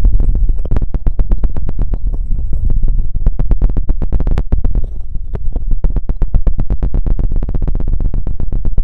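Very fast ASMR scratching and knocking strokes on a microphone, many a second, sounding deep and muffled.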